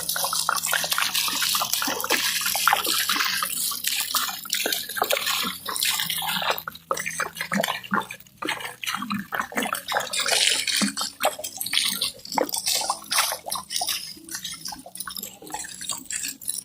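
Water poured from a jug, splashing as a steady stream for about the first half, then breaking up into uneven splashes.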